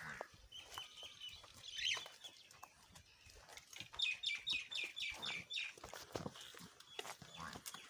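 Birds calling. About four seconds in comes a quick run of about seven high chirps, about four a second, with scattered clicks and knocks around them.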